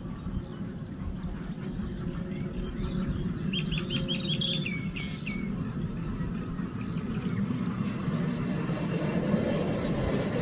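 A bird calls a quick run of about eight short, rapid notes that trail downward at the end, with one brief high note a second or so before. Under it is a steady low rumble of background noise that grows slightly louder near the end.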